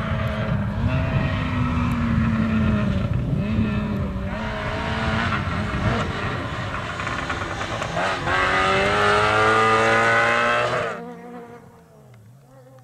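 Rally car engine at high revs, its pitch climbing repeatedly as it accelerates hard. It is loud until about eleven seconds in, when it drops suddenly to a fainter, steady engine tone.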